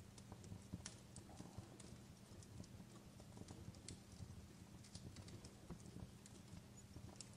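Faint fireplace crackling: irregular small pops and snaps from burning wood, over a low steady hum.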